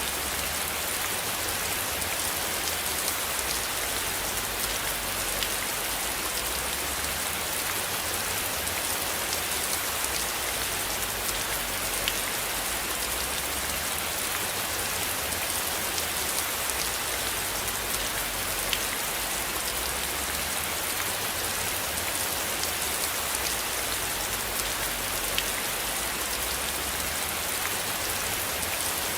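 Steady rain falling: an even hiss with scattered sharper drop ticks and a low rumble underneath.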